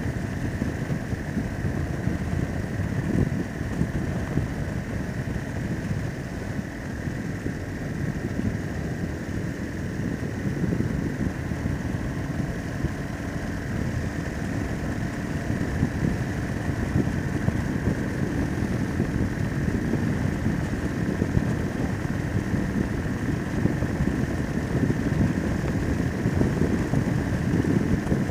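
Harley-Davidson Sportster V-twin engine running steadily at road speed, heard from the rider's seat mixed with wind rush on the microphone.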